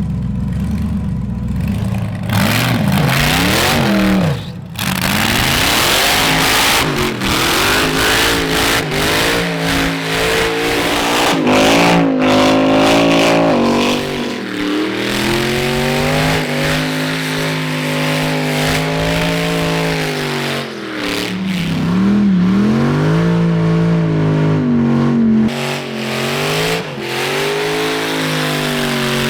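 Supercharged LS V8 in an R34 Skyline revving hard through a burnout. The revs rise and fall again and again, over a constant noise of spinning, smoking rear tires.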